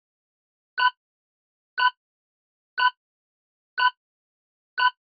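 Countdown timer sound effect: a short, clock-like tick once a second, five times, with silence in between.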